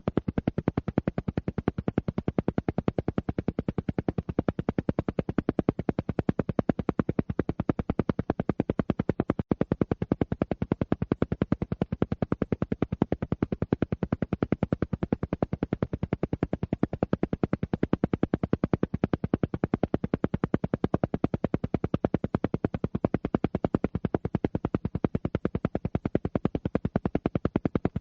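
Alpha-wave brainwave-entrainment sound: a steady, rapid train of evenly spaced pulses, roughly ten a second, at an unchanging level and without pause.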